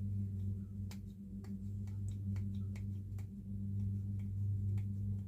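Scattered light clicks and taps of model-kit parts and packaging being handled and moved about on a table, over a steady electrical hum.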